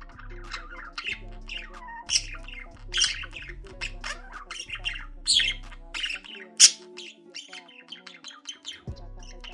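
Budgerigars chattering and squawking in quick, sharp calls, the loudest about six and a half seconds in, over background music with a low beat that drops out for a few seconds near the end.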